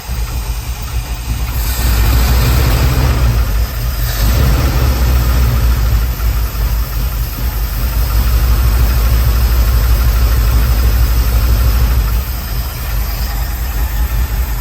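1979 Ford Bronco's 351M V8 engine running at a rough idle, which needs fine-tuning; it grows louder about two seconds in.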